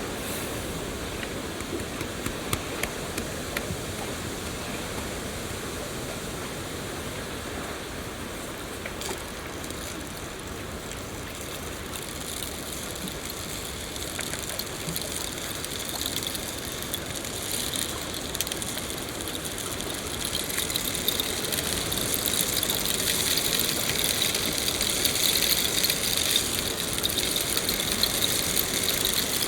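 Steady rain falling, a continuous hiss flecked with the ticks of single drops, growing louder and hissier about two-thirds of the way through.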